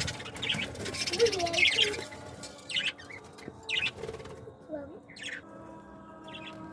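Small caged pet birds chirping: a dense flurry of high chirps for about two seconds, then sparser single chirps.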